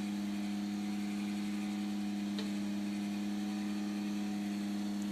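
A machine running steadily, giving an even low hum with a second tone just above it and no change in pitch or level; a faint tick about two and a half seconds in.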